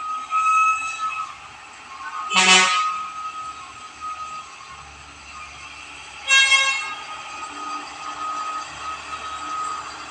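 Two short vehicle horn blasts, about four seconds apart, over the sound of traffic on the hill.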